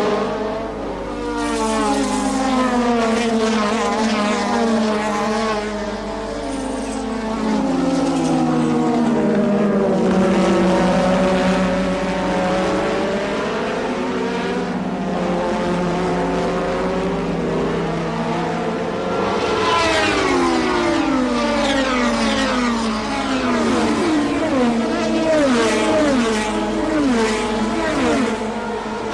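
Engines of 1980s Formula One cars at high revs, several at once, their pitch rising and falling as they pass and change gear. From about twenty seconds in, a series of quick rising sweeps that each cut off: rapid upshifts under hard acceleration.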